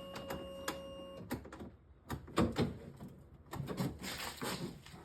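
Handling sounds on an ATV being readied to start. A steady tone sounds for about the first second, then scattered clicks and knocks follow. No engine is running yet.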